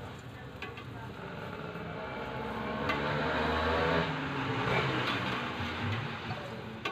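A motor vehicle passes on the street, its engine growing louder, peaking in the middle, then fading with a falling pitch as it goes by.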